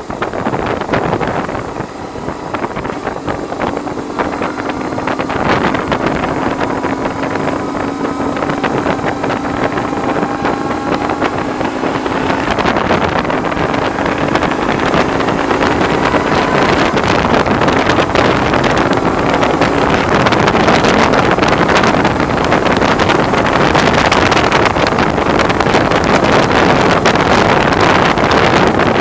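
BMW R1100R's flat-twin engine pulling under way, its pitch rising slowly, dropping back about twelve seconds in, then rising again. Heavy wind noise on the microphone grows louder through the second half; the rider puts the wind noise down to the bike's screen.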